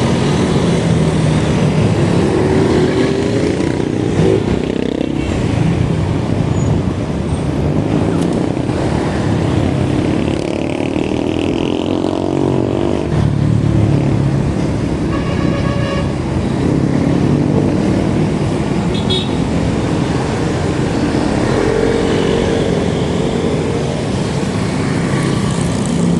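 Road traffic: vehicle engines running, with their pitch rising several times as they accelerate. A short horn toot comes about fifteen seconds in.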